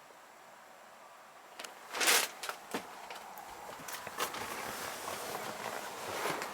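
Faint quiet, then a loud brief scuff about two seconds in, followed by small clicks and rustling: someone moving about and handling fittings inside a truck's sleeper cab.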